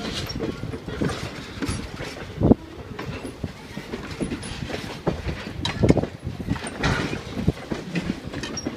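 Railroad cars running along the track, wheels clacking over rail joints amid a steady rumble, with irregular knocks and clunks. The sharpest knock comes about two and a half seconds in.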